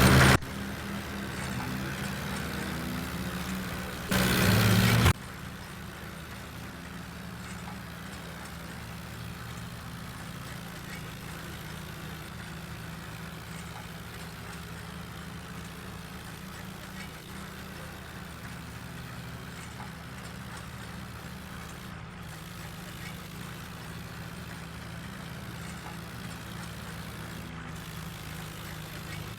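Tractor engine idling steadily, with a brief louder burst about four seconds in.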